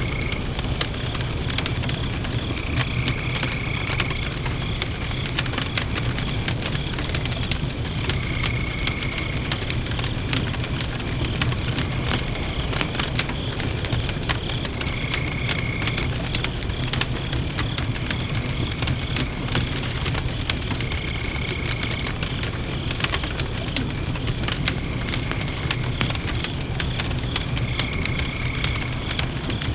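Wood fire burning in a Macrite fire stand: a steady rush of flame with frequent sharp crackles and pops. A short high tone comes back about every five or six seconds in the background.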